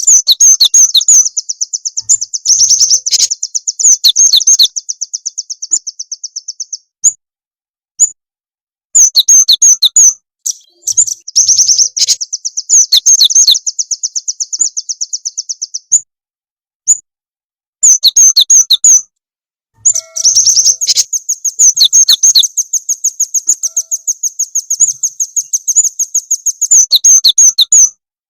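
Lure recording of small songbird song: loud runs of rapid, high-pitched chirps, each run lasting a few seconds, broken by short silences and mixed with sharp falling notes.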